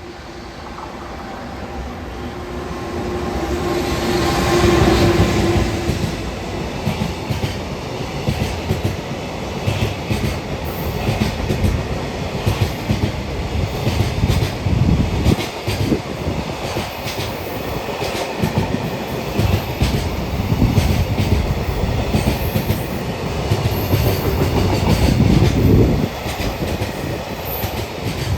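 Container freight train hauled by an EF210 electric locomotive passing through the station. The locomotive draws near and goes by about four to five seconds in, with a brief tone as it passes, followed by a long run of container wagons with a steady rumble and the repeated clack of wheels over rail joints.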